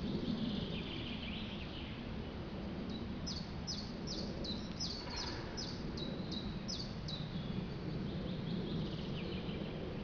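A songbird singing: a run of about a dozen quick, high notes, each sliding downward, roughly three a second, with fainter bird calls shortly before and after, over a steady low background rumble.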